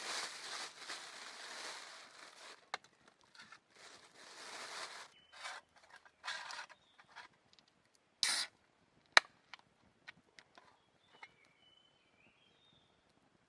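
Rustling and handling noises in bursts, with a few sharp clicks and one loud snap about nine seconds in, then faint short chirps near the end.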